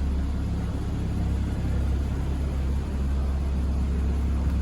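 Car engine idling steadily: a low, even rumble.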